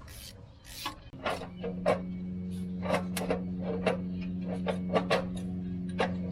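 Irregular clicks and clanks of hand tools working on metal under a car, with a steady low hum starting about a second in.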